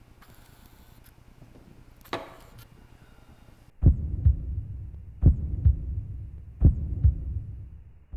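Heartbeat sound effect: three slow, deep double thumps (lub-dub) begin about four seconds in. Before them there is faint room tone with a single click.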